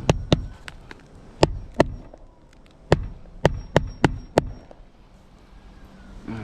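A series of sharp knocks and clicks, about ten, irregularly spaced in small clusters, with a quieter stretch in the last couple of seconds: hard parts or tools being handled during a repair.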